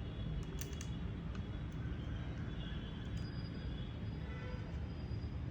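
A few light clicks and taps, as of laptop parts and screws being handled during reassembly, over a steady low background rumble.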